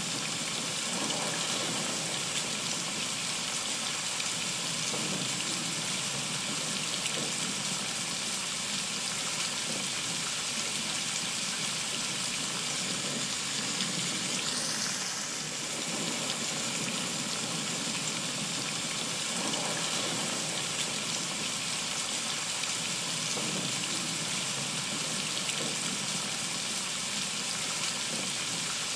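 Heavy rain pouring steadily onto trees, grass and a wooden deck: a dense, even hiss of countless drops. A brief rising swish sounds about halfway through.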